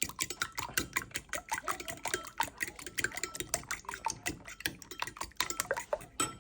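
A whisk beating eggs in a bowl: rapid, irregular clicking against the bowl, several strokes a second, with liquid sloshing. It stops abruptly near the end.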